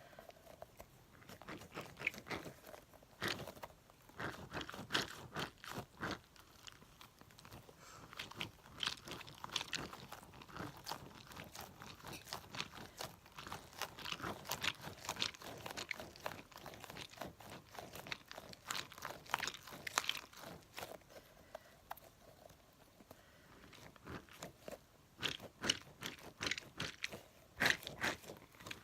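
Close-miked sticky crackling and clicking, irregular and in clusters, as a tacky toy crab is handled and pulled from the fingers.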